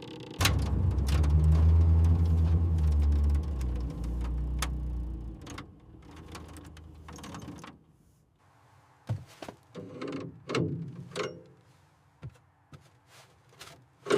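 A heavy, low mechanical rumble starts suddenly and runs for about five seconds, then dies away. A few seconds later come a series of separate sharp metal knocks and clunks.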